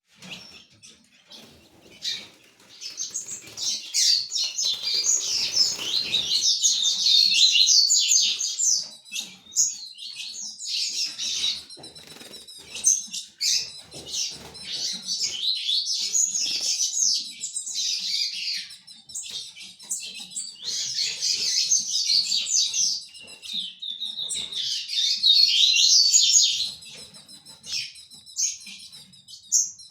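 Ultramarine grosbeak (azulão) song: long bouts of fast, warbling, high-pitched phrases, with short pauses between them.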